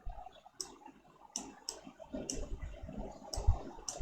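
Computer mouse clicking, about six short, sharp clicks spaced irregularly, over a faint low rumble.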